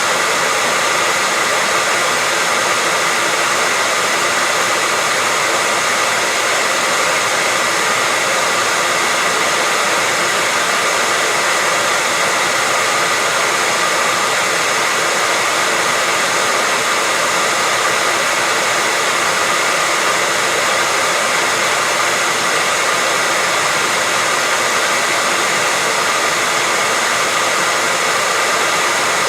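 Hair dryer running steadily as white noise for lulling a baby to sleep: an even, loud rush of air with a faint steady motor whine, unchanging throughout.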